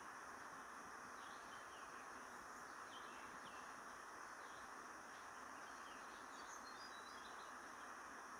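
Faint, short, high bird chirps scattered every second or two over a steady hiss; no crowing.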